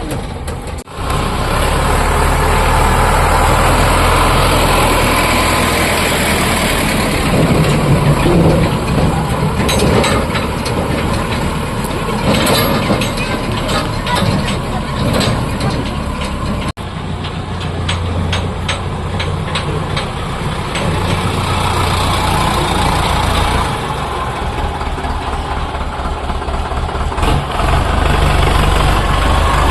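Tractor diesel engine running steadily with a low, even rumble. There is some rattling in the middle, and two abrupt momentary breaks, about a second in and just past halfway.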